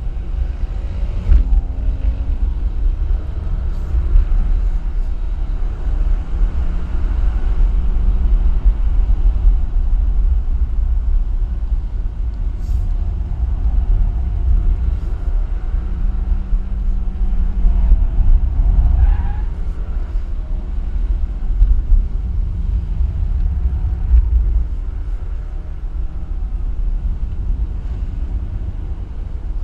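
Alfa Romeo car driving at speed: a heavy, steady low rumble of road and wind noise. Engine notes briefly rise and fall a few times.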